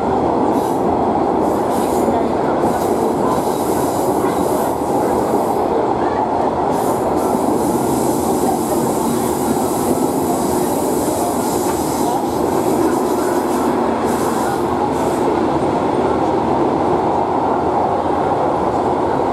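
Cabin noise aboard a Class 142 'Pacer' four-wheeled diesel railbus on the move: a steady rumble of wheels on rail and the running unit, with a high hiss or squeal that comes and goes through the middle of the stretch.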